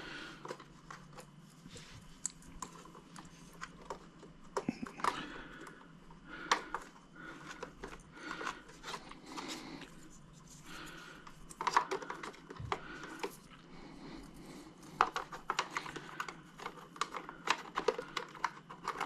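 Hands handling the plastic parts of a robot vacuum cleaner: irregular light clicks, taps and rustling as the brush roll and its cover are fitted and handled, with a few sharper clicks in the second half.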